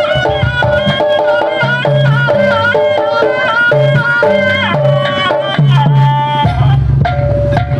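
Jaranan Buto ensemble music: a wavering, bending melody over steady hand-drum strokes, with deep low notes coming in strongly near the end.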